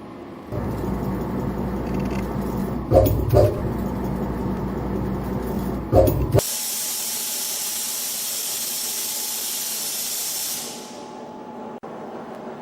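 CNC flat-wire ring forming machine running: a low motor hum with three sharp clanks, two about three seconds in and one near six seconds. The hum then stops abruptly and gives way to a steady hiss lasting about four seconds before it fades.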